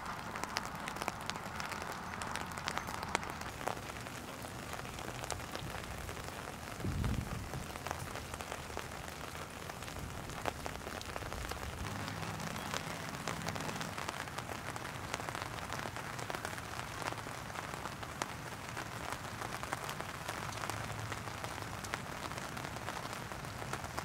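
Gentle rain falling steadily, with many small drop ticks on wet ground and puddles. A single low thump about seven seconds in.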